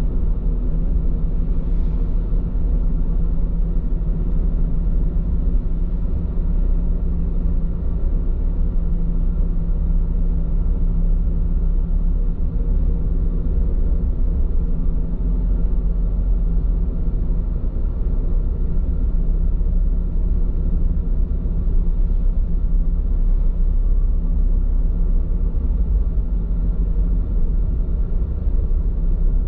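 Steady low road rumble and tyre noise inside a moving car's cabin, on Bridgestone Regno tyres.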